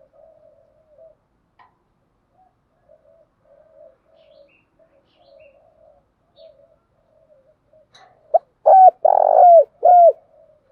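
Spotted dove cooing: soft, low, broken cooing murmurs, then near the end a loud coo phrase of four notes, the third long and rough.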